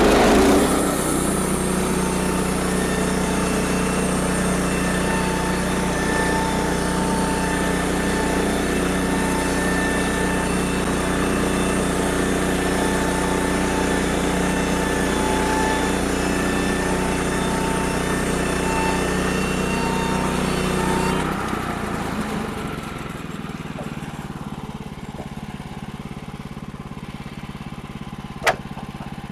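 Sawmill's engine and blade running hard through a cut in a log, starting abruptly and holding steady for about twenty seconds, then dropping to a quieter steady run. A single sharp click near the end.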